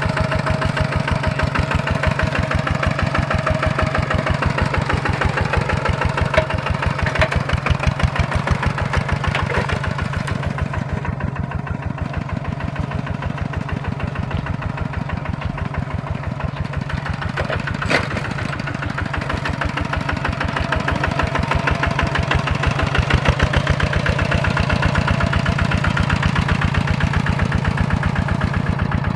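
Tractor's single-cylinder diesel engine running steadily under load while ploughing, with rapid even firing pulses.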